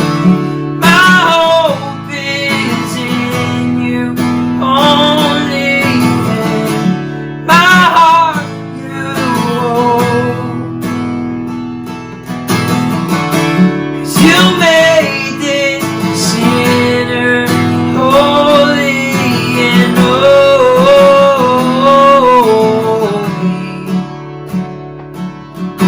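Acoustic guitar strumming chords with a voice singing a wavering melody over it.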